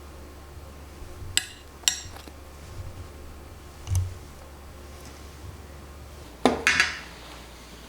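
Kitchenware being handled: two sharp clinks about a second and a half in, a dull knock around four seconds, and a louder short clatter of dishes or utensils near the end.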